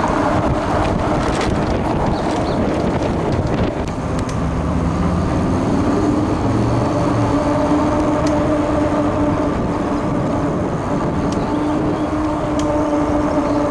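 Riding an e-bike on the road: steady wind and road noise on the microphone, with a steady motor whine that settles in about five seconds in.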